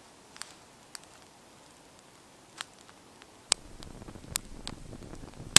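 Wood fire in a folding Bushbox twig stove crackling, with scattered sharp pops and snaps. The background noise rises suddenly about three and a half seconds in, and the snaps come more often after that.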